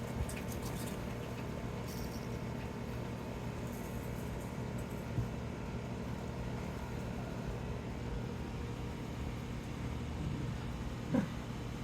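A steady low mechanical hum with a few faint high clicks early on, and one short pitched squeak near the end.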